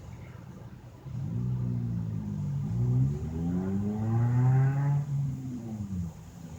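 A motor running with a pitched hum that starts about a second in, glides up in pitch and then back down, and fades out near the end.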